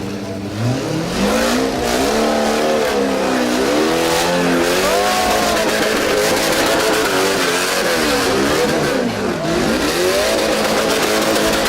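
Jeep-based rock crawler's engine revving hard, its pitch rising and falling again and again as the driver works the throttle to claw up a rock waterfall.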